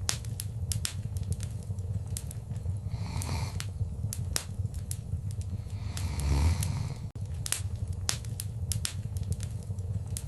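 Wood fire crackling in a fireplace: frequent sharp pops and snaps over a steady low rumble, with a few soft hissing swells of flame and a louder surge a little past the middle.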